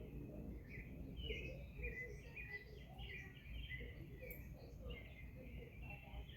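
Small birds chirping and twittering faintly in quick, irregular short notes, over a low steady rumble.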